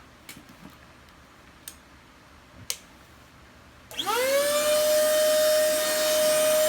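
A few faint clicks, then about four seconds in a 320 W electric inflator fitted with a vacuum-cleaner kit switches on: its motor whine rises quickly and settles into a loud, steady high hum.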